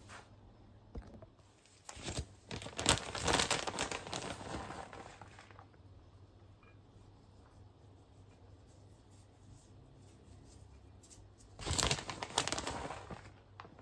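Crinkling and rustling of something being handled, in two bouts: a longer one starting about two seconds in, and a shorter one near the end.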